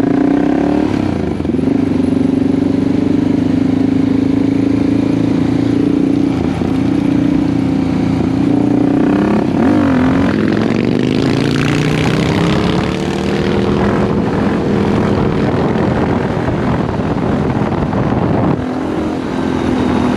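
Supermoto motorcycle engine heard from on board while riding, holding a steady pitch, then easing off about halfway through and climbing in pitch as it accelerates. Wind rushes over the microphone as the speed picks up.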